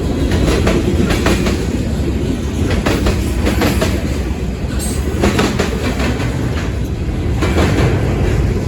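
Freight train cars rolling past, with a steady heavy rumble and repeated clicks and clacks of the wheels over rail joints.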